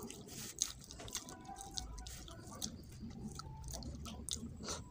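A man eating rice and fish head by hand: chewing sounds with many short clicks, and his fingers working the rice on a metal plate.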